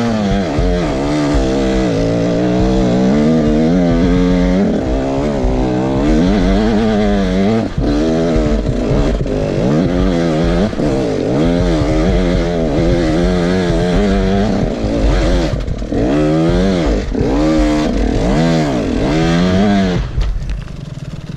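KTM 150SX dirt bike's two-stroke single-cylinder engine revving up and down continuously under throttle on a rough trail. Near the end the revs drop off.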